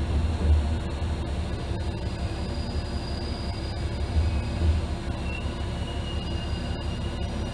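Diesel railcar running along the track: a steady low engine drone with rail and wheel noise. A few faint high tones sit above it.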